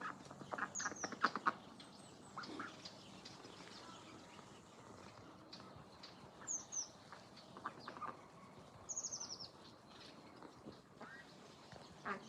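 Ducks calling, with a quick run of short quacks about a second in and scattered ones later. High, falling chirps come in now and then.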